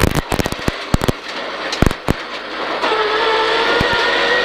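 Peugeot 306 rear-wheel-drive rally car at speed: a flurry of sharp cracks and knocks in the first second, then from about three seconds in a steady high engine note climbing slowly in pitch as the car accelerates.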